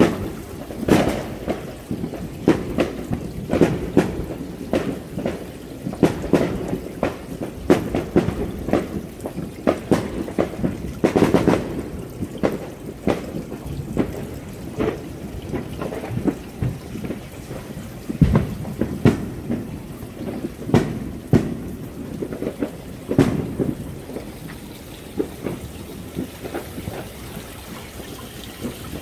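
Fireworks going off in a continual, irregular string of bangs and booms, often one or two a second.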